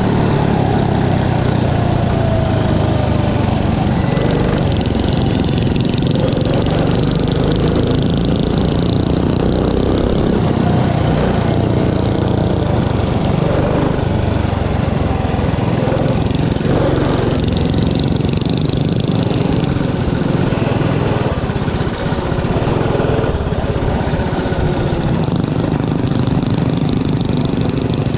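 Small mini bike engines running hard and revving, their pitch rising and falling as the bikes race around a dirt track.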